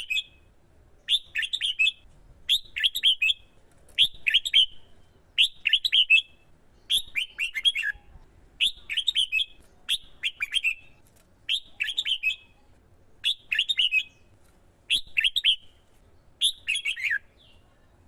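Red-whiskered bulbul singing: short, quick warbled phrases, each under a second, repeated about every second and a half.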